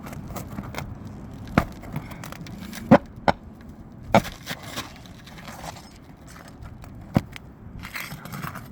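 Several sharp knocks at irregular intervals, with scraping between them: a tool working at roofing nails in brittle, cracking asphalt shingles as the nails are pried out.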